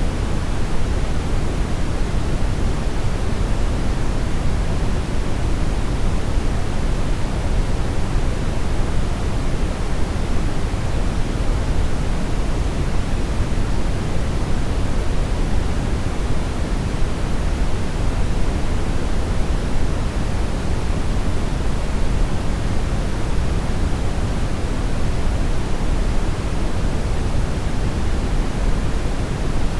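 Steady brown noise: an even, unchanging rumbling hiss weighted toward the low end.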